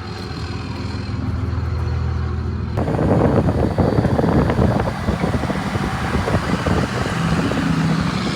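Power Wagon's 5.9 diesel engine running steadily, then about three seconds in a louder, rougher rumbling sets in and carries on.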